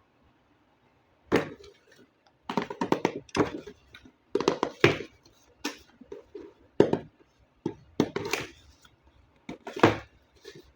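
Unboxing a toy RC vehicle: irregular short knocks, clicks and rustles as the packaging and the toy are handled, with quiet gaps between them.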